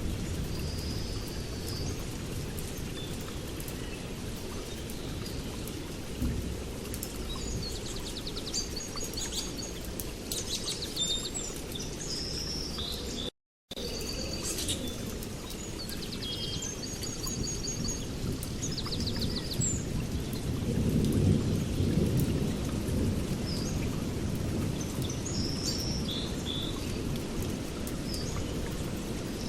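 Several songbirds chirping and trilling over a steady low rumble, which swells about two-thirds of the way through. The sound cuts out completely for a moment a little before halfway.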